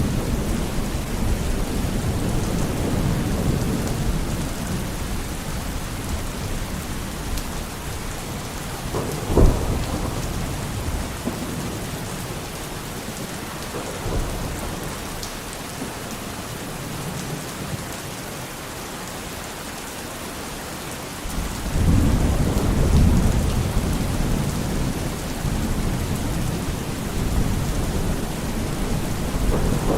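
Steady heavy rain with rolling thunder: a sharp thunderclap about nine seconds in, the rumble dying down, then a fresh long roll of thunder building about twenty seconds in.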